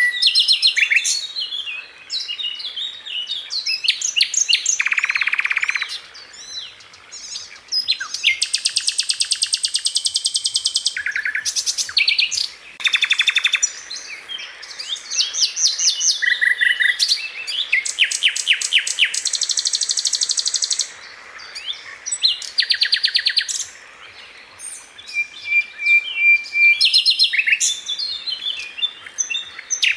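Sikatan Londo flycatcher singing non-stop in fast, tightly packed bursts: rapid rattling trills and strings of sharp high notes, broken by a few short held whistles.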